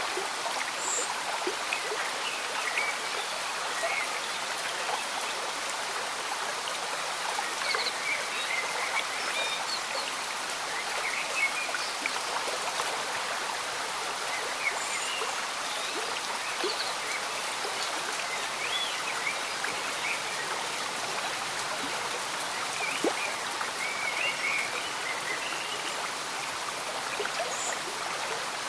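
Steady rain falling with a gently bubbling stream running beneath it, a continuous even hiss. Small chirps and calls, likely from frogs or insects, are scattered through it.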